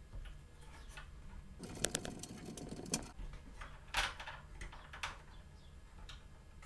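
Sharp plastic and metal clicks of computer parts being handled and worked on: a quick clattering run of clicks and rattles, followed by two single louder clicks about a second apart and a fainter one near the end.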